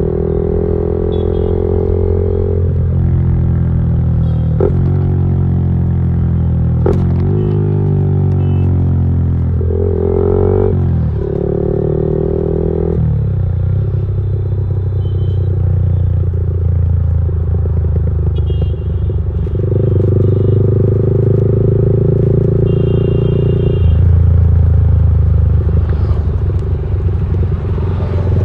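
Motorcycle engine running loud through an aftermarket exhaust, holding steady revs for stretches, with the pitch falling and climbing again a few times about a third of the way in.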